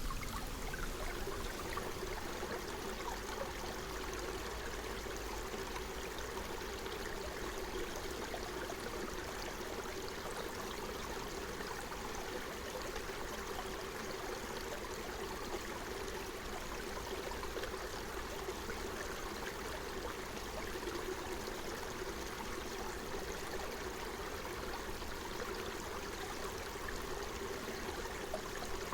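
Forest stream flowing over stones, a steady babbling and gurgling of running water.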